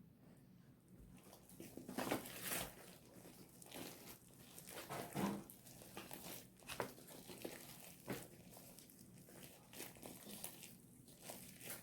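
Homemade slime being worked by hand, giving irregular sticky squishing noises at uneven intervals that begin about two seconds in.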